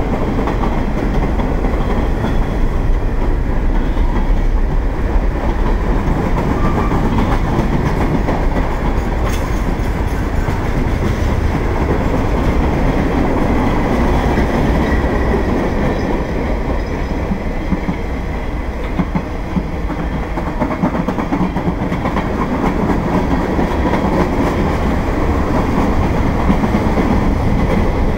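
Freight cars of a passing manifest train rolling by close up: a loud, steady rumble of steel wheels on the rails with clickety-clack over the track.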